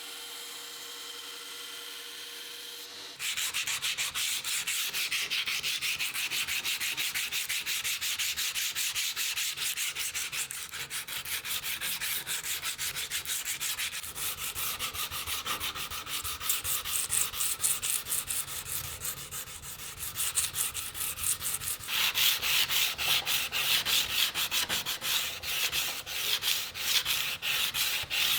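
Sandpaper rubbed by hand over the rusty steel of a survival knife in fast, repeated back-and-forth strokes, rust removal in progress. It starts about three seconds in, after a steady faint hum, and gets louder in the last third.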